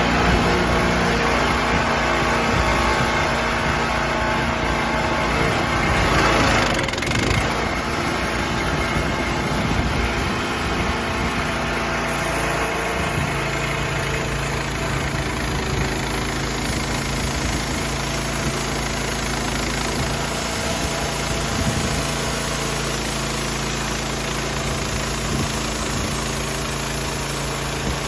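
An engine running steadily at idle, its note shifting slightly about twelve seconds in.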